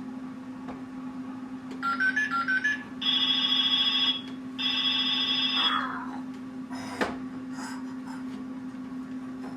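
Electronic sound effects from a Winnie the Pooh ride-on toy fire engine: a short stepping electronic tune, then two ringing electronic tones of about a second each with a short gap between. A single click about seven seconds in.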